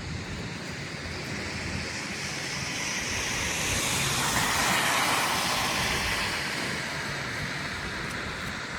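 A vehicle passing on a snowy street, its tyre hiss swelling to its loudest about halfway through and then fading away.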